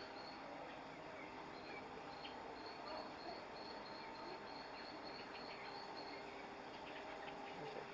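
Faint ambience: a high chirping call repeated evenly, about four times a second, for several seconds, over a steady low hum.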